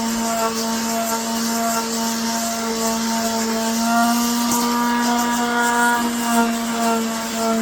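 Electric palm sander running steadily with a constant hum, sanding a resin-coated 3D-printed helmet. A gritty hiss comes from the sandpaper on the resin.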